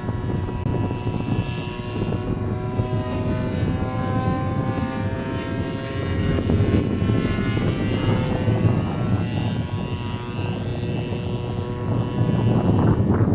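Turnigy 30cc two-stroke gasoline engine of a Yak-54 RC model plane running with its propeller, its note slowly drifting up and down in pitch, over a low rumble.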